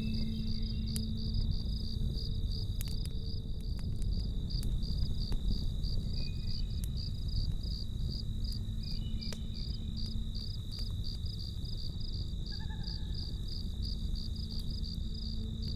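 Crickets chirping in a steady, even pulse, about three chirps a second, over a low campfire rush with occasional faint crackles. A soft held music tone sits underneath, dropping out about two-thirds of the way through and returning near the end.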